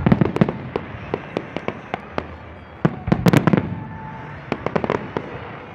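Fireworks display: aerial shells bursting in a rapid string of bangs and sharp pops, with a dense volley at the start and another about three seconds in.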